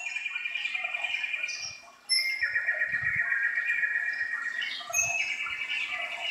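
Birdsong: three long trilled phrases, each lasting one to two seconds, with short high chirps between them.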